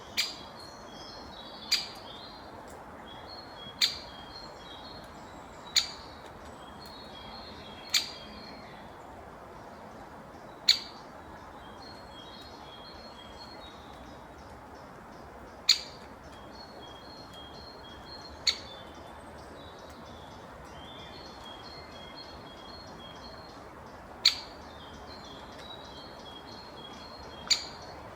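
A woodpecker pecking at a feeder: about ten loud, sharp single knocks spaced a few seconds apart, over small birds chirping steadily.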